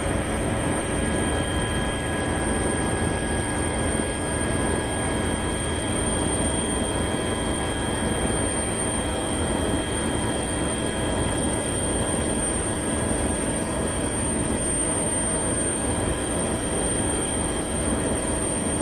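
Steady helicopter noise in flight: a dense, unbroken rumble with several constant high whining tones over it.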